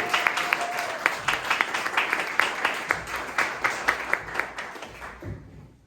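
Audience applauding, a dense patter of hand claps that thins and fades out near the end.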